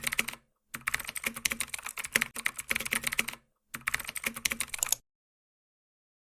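Rapid keyboard typing clicks in three runs with brief pauses between them, stopping about five seconds in.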